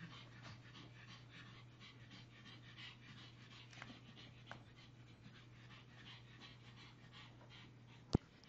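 A pug panting quickly and evenly. A single sharp click comes near the end.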